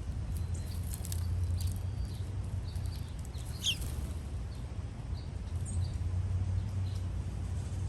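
Scattered short, high bird chirps over a steady low rumble, with one chirp sliding downward in pitch about three and a half seconds in.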